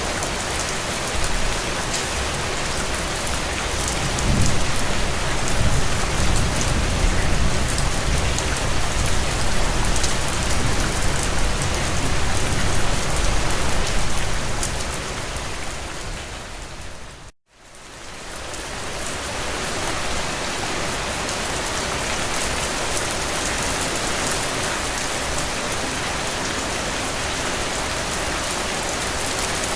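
Recorded steady rain, with a low rumble underneath for about ten seconds. About halfway through, the rain fades out to a moment of silence and fades back in.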